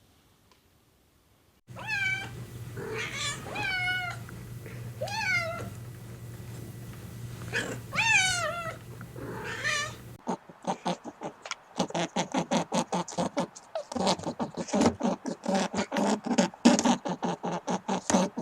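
Domestic cat meowing about six times, each meow falling in pitch, over a steady low hum. From about halfway through, a different, fast, even chattering of short pulses takes over.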